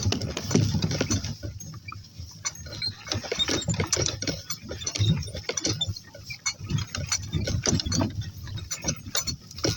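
Donkeys walking along a mown grass lane: a steady run of irregular footfalls and rustling, with animal noises from the donkeys.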